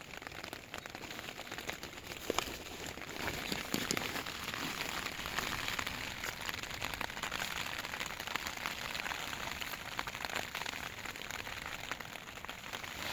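Rain pattering steadily on a tent, a dense hiss of many fine drop ticks.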